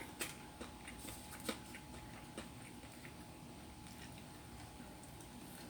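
A person chewing pizza close to the microphone, with faint scattered clicks and smacks of the mouth, a few in the first couple of seconds.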